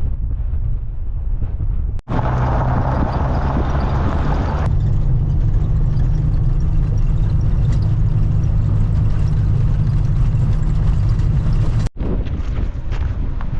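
Renault 4 van's engine running steadily on the road, a loud low hum with wind noise over it. The sound drops out abruptly twice, about two seconds in and near the end.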